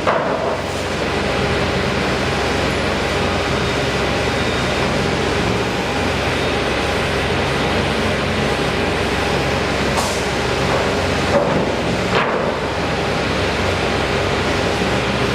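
A heavy engine running steadily under a constant mechanical noise, with a few brief sharp sounds about ten and twelve seconds in.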